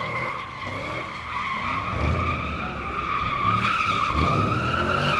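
A sliding car's tyres squealing in one long, steady, slightly wavering screech, with the engine's low rumble underneath.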